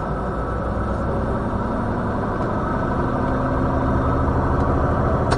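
Vehicle engine and road noise heard from inside the cab while driving: a steady rumble that grows slowly louder.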